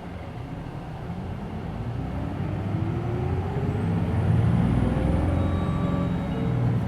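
Interior of a Hino Blue Ribbon City Hybrid bus pulling away. The diesel engine's pitch and loudness climb steadily over the first few seconds. A faint high whine rises and falls in the middle.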